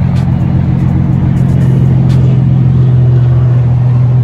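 Infiniti G37 sedan's V6 engine idling: a steady, loud, low drone.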